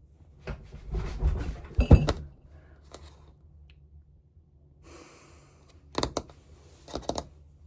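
A run of knocks and thumps, the heaviest about two seconds in, then a soft rustle and two sharp knocks near the end.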